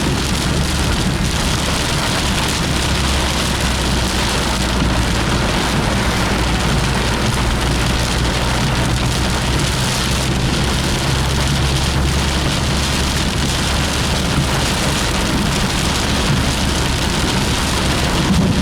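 Heavy rain drumming steadily on a moving car, over a constant low hum from the car.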